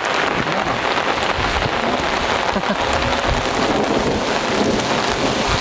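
Heavy rain pouring down, a dense steady hiss, with an irregular low rumble underneath.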